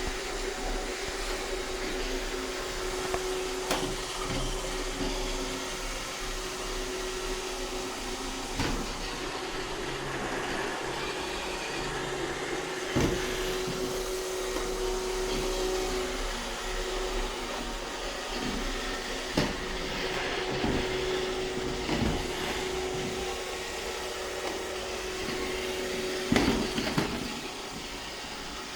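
iRobot Roomba 630 robot vacuum running steadily with a constant hum, broken by several short sharp knocks. It gets quieter near the end.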